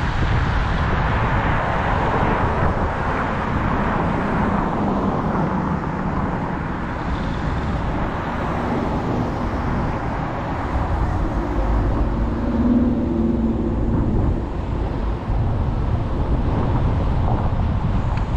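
Steady road and wind noise of a car being driven, with a faint hum coming in briefly about twelve seconds in.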